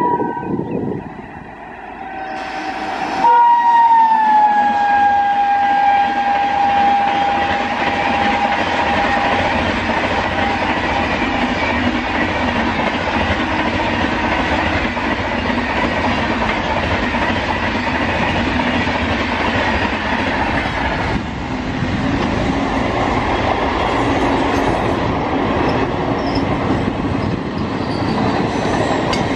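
WAP-7 electric locomotive sounding its horn about three seconds in, the tone dropping in pitch once and held for several seconds, then the steady rumble and wheel clatter of the express coaches running past at speed.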